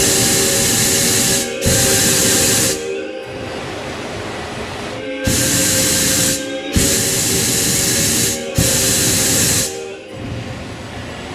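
Pyrotechnic flamers firing a series of short hissing flame jets: five bursts of about a second each, starting and cutting off abruptly, over a softer steady hiss.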